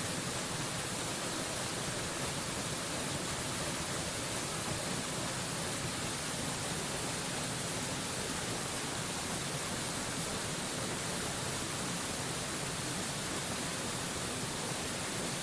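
Steady rush of a mountain waterfall: an even, unbroken hiss with plenty of bright high end and no changes.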